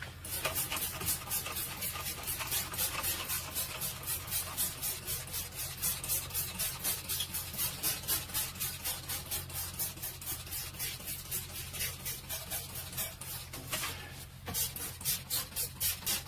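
Rhythmic scrubbing strokes on a truck's cab floor, about three to four a second, while tar and grime loosened by spray cleaner are wiped off. The strokes pause briefly near the end. A steady low hum runs underneath.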